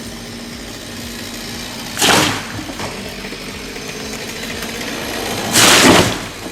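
An engine running steadily, broken by two loud, short rushing noises: one about two seconds in and a longer one near the end.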